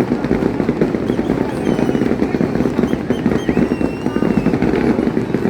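Aerial fireworks display: a continuous dense barrage of bangs and crackling, with a few short whistles heard above it.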